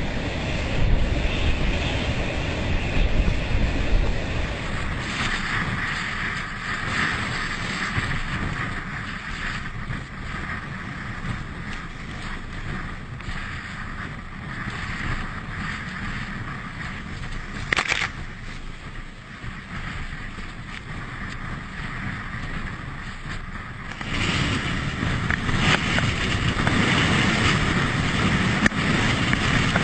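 Rough sea waves rushing and breaking, with strong wind blowing on the microphone: a steady rushing noise with a low rumble that shifts in character about five seconds in and again about three-quarters of the way through, and a single sharp knock a little past the middle.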